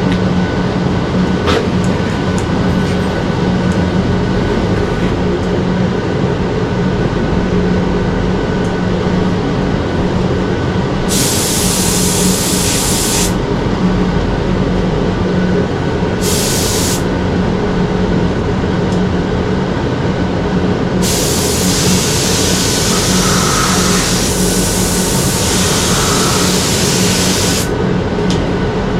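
Compressed-air spray gun spraying Cerakote in bursts of hiss: one about two seconds long near the middle, a short one soon after, and a longer pass of about six seconds near the end. A loud, steady machine hum runs underneath throughout.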